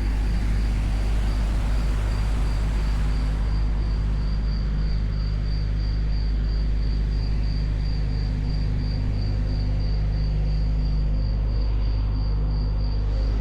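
Steady low mechanical hum with a constant drone, over which a faint high chirp pulses about three times a second.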